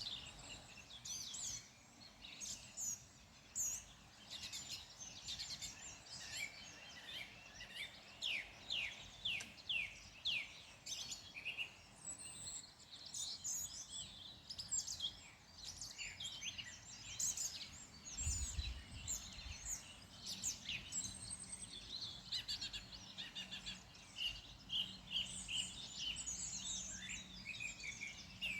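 Several wild birds singing and chirping together, quick high trills and chirps overlapping without a break. A brief low rumble comes about two-thirds of the way through.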